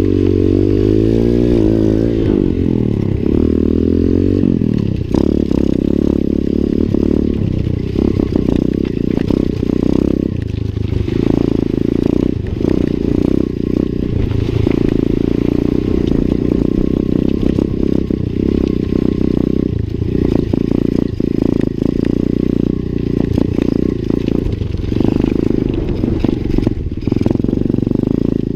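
Lifan 125 cc pit bike's single-cylinder four-stroke engine running while ridden, revs rising and falling over the first few seconds, then holding fairly steady. Frequent short knocks and rattles run through it.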